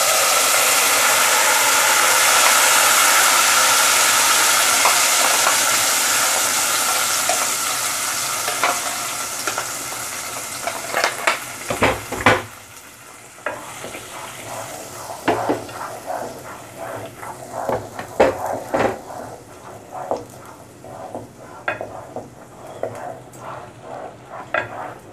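Onion-tomato masala paste sizzling loudly as it goes into hot oil, butter and cumin in a pot, the hiss slowly dying away over about twelve seconds. After that, a spoon and wooden spatula scrape and knock against the pot as the paste is stirred.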